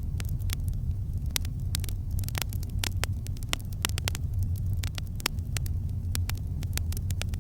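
Campfire crackling, with many sharp irregular pops and snaps, several a second, over a steady low rumble.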